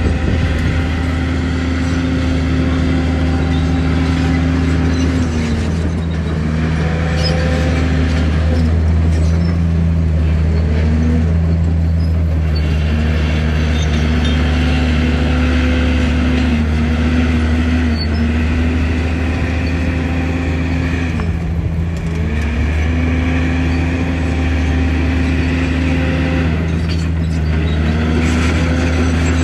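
Heavy diesel earthmoving-machine engine running hard, its note rising and dropping in repeated cycles every few seconds over a steady low drone.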